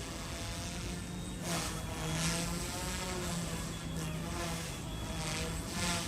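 Small electric RC helicopter buzzing in flight, its motor whine wavering in pitch as the throttle changes, with a few short rushes of noise.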